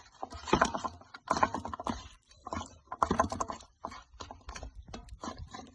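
Rapid clicking taps in several short bursts, each lasting about half a second, the busiest near the start and around the middle, thinning to scattered single taps near the end.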